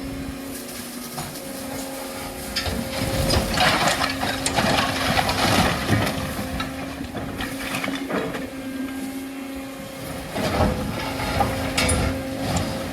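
Demolition machinery running steadily while brickwork is broken up, with irregular crunching, scraping and knocks of masonry, heaviest in the middle and again near the end.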